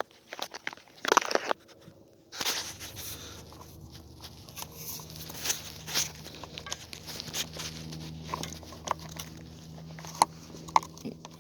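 Handling noise of tools on a chainsaw: irregular clicks, knocks and scrapes of metal parts. A steady low hum starts about two seconds in.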